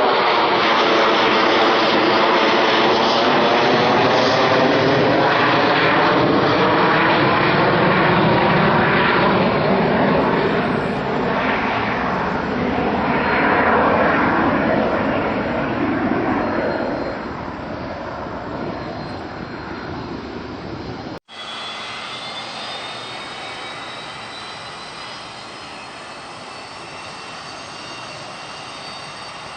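Jet airliner passing close, loud with a sweeping, phasing rush of engine noise, then fading. After a sudden break about 21 seconds in, a quieter jet with a steady high whine.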